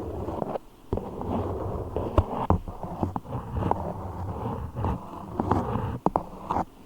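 Beeswax handled close to the microphone: a close rustling noise with many sharp, irregular clicks and crackles.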